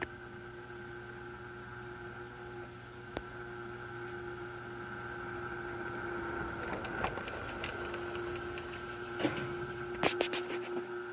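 Motor of a new HO scale model locomotive running with a steady hum and a constant higher whine above it, which the owner questions as possibly not normal. Scattered clicks and rattles join in from about six seconds in.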